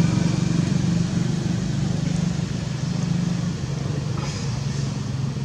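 A motor vehicle's engine running with a steady low hum, slowly growing quieter.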